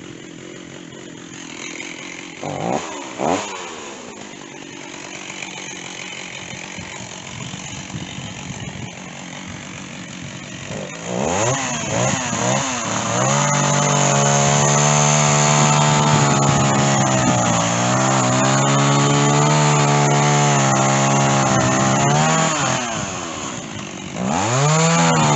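Stihl chainsaw idling with two quick blips of the throttle, then revved up about eleven seconds in and held at high speed, its pitch sagging and recovering slightly. Near the end it drops back briefly and revs up again.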